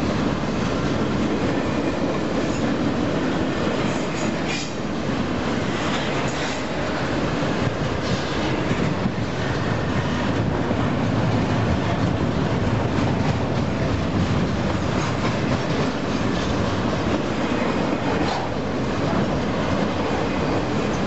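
Union Pacific double-stack intermodal train passing close by: a steady rumble and clatter of the well cars' steel wheels rolling over the rails.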